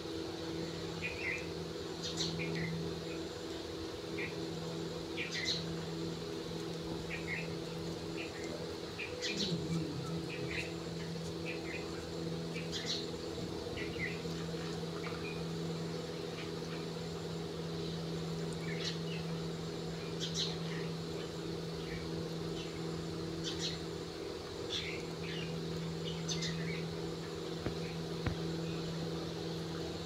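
Short bird chirps and tweets, scattered a few every couple of seconds, over a steady low hum.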